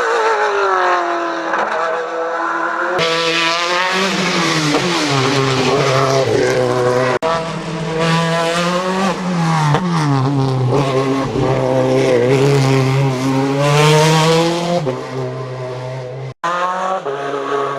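Hill-climb racing car engines at full throttle, revving up through the gears, the pitch climbing and then dropping at each shift. The sound cuts abruptly from one car to the next a few times.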